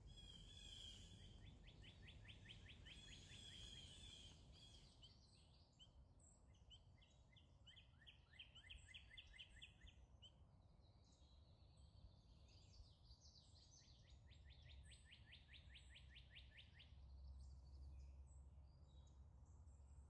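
Faint woodland bird calls: three runs of quick, even trills a few seconds each, with a few higher chirps, over a low rumble.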